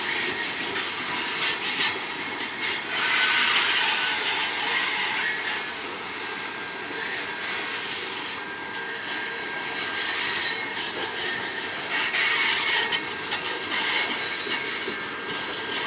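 Freight train cars rolling past on the rails, a steady wheel-on-rail noise with high-pitched wheel squeal that swells about three seconds in and again near the end.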